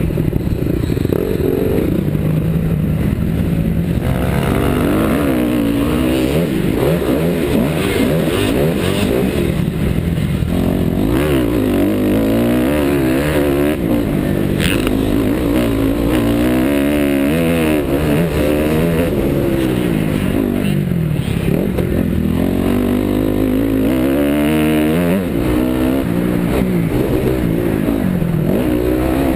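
2009 Honda CRF250R's single-cylinder four-stroke engine racing, revving up and dropping back again and again as the rider works the throttle and shifts gears.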